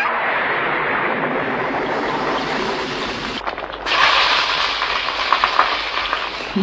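Steady hissing noise that breaks off about three and a half seconds in. It returns louder half a second later, with small crackles running through it near the end.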